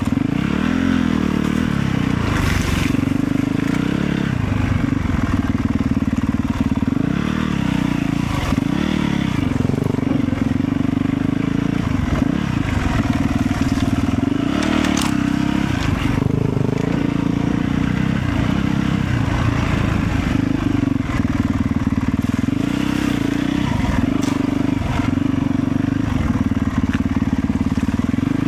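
Motorcycle engine running steadily while riding, its pitch rising and falling a little as the throttle changes, over a continuous rush of noise.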